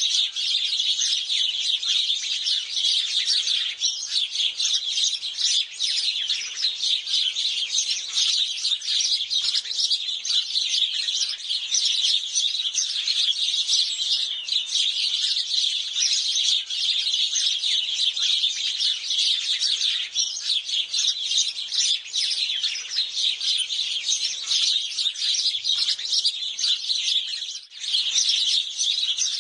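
A flock of house sparrows chirping, with many short calls overlapping into a dense, continuous chatter that dips briefly near the end.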